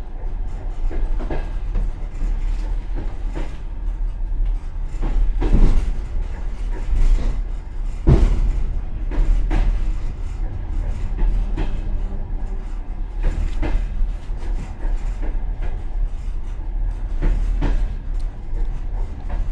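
Passenger train car running, heard from inside its rear vestibule: a steady low rumble with irregular knocks of the wheels over the track. The two loudest knocks come about five and a half and eight seconds in.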